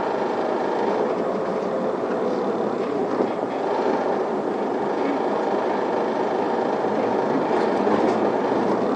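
Isuzu Erga city bus's diesel engine and drivetrain pulling away from a stop, heard from inside the passenger cabin as a steady running noise that grows slightly louder near the end as the bus gathers speed.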